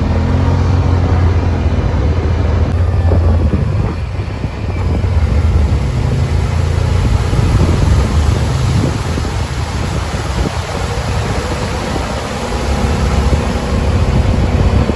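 Yamaha Wolverine side-by-side's engine running steadily at low speed, a strong low drone under a constant rushing noise, with a brief dip about four seconds in.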